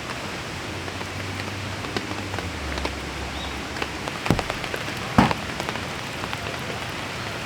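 Steady rain falling, with scattered heavier drops tapping close by and two louder drop hits about four and five seconds in.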